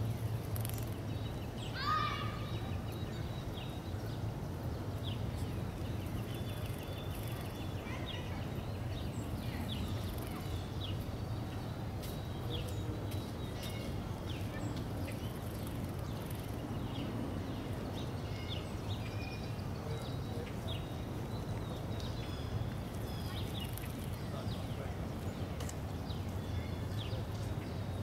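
Small birds giving many short, high chirps and call notes scattered throughout, with one quick rising call about two seconds in, over a steady low hum of city background noise.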